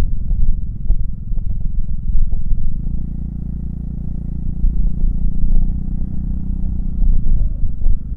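Honda Fusion MF02 scooter's single-cylinder four-stroke engine running. There is heavy low rumble at first; from about three seconds in, the engine settles into a steady note.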